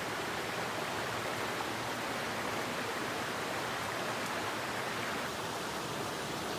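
Steady rushing of a mountain headwater stream flowing over rocks.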